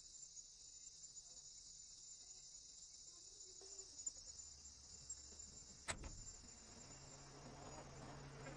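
Faint, steady, high-pitched insect chorus, with a sharp click about six seconds in and a low hum joining near the end.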